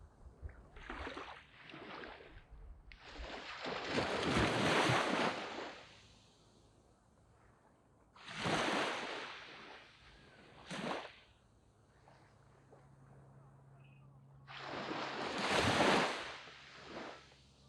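Small waves breaking and washing up a sandy beach in separate surges, each swelling and fading with quiet gaps between. The biggest surges come about four seconds and about fifteen seconds in.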